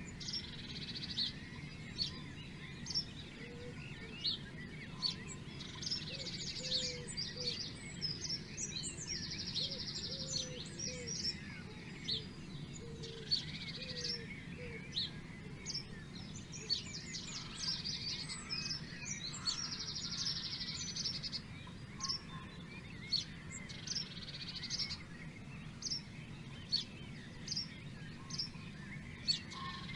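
Several songbirds singing and chirping, with short calls throughout and a repeated rapid trill of a second or two recurring every few seconds, over a steady low background hum.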